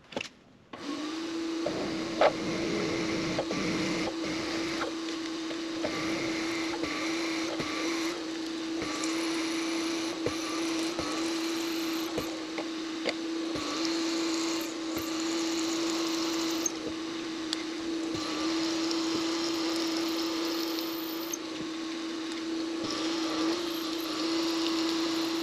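Precision Matthews PM-25MV benchtop milling machine starting up about a second in and running with a steady hum, while a jobber drill bit in its chuck drills a hole down into a block of aluminum, with a shifting cutting hiss and a few light clicks.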